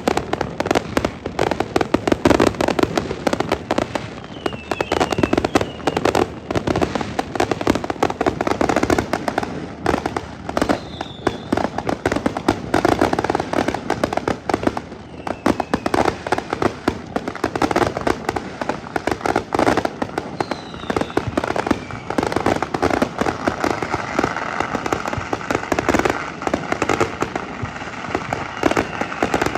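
Fireworks display going off without a break: dense, rapid bangs and crackling, with a few short falling whistles now and then.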